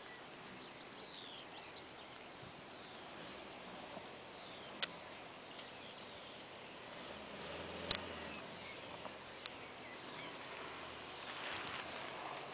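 Faint, distant Subaru Leone EA81 flat-four engine running, swelling a little about seven to eight seconds in, under quiet outdoor background noise with small bird chirps in the first few seconds and three sharp clicks.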